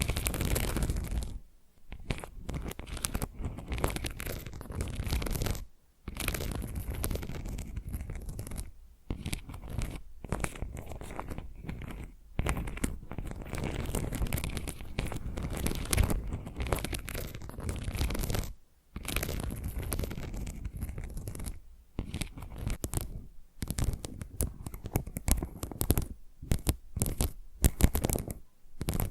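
Fingernails scratching and tapping close to the microphone on assorted trigger objects: tile, a scrub sponge, the microphone itself and clay foam. The sound comes in short segments that change every few seconds, with brief gaps between them.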